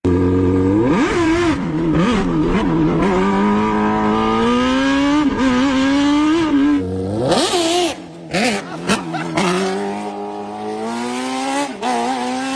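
Superbike engine in a golf cart revving: quick throttle blips, then a steady climb in pitch as it pulls. About seven seconds in the revs drop sharply, with a short burst of hiss, then climb again.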